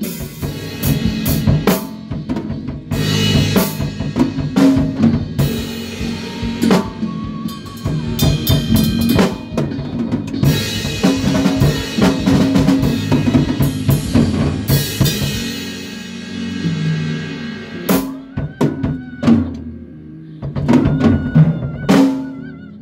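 A band rehearsing: a drum kit playing with bass and other instruments. The playing thins out to separate hits in the last few seconds.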